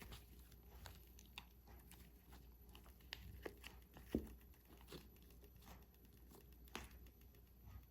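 Faint handling sounds: light crinkling and scattered small clicks and taps, the loudest a single sharp tap about four seconds in, over a low steady hum.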